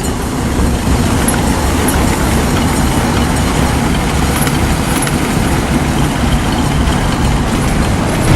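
A tank's engine running steadily: a continuous heavy rumble with hiss over it, on an old field recording.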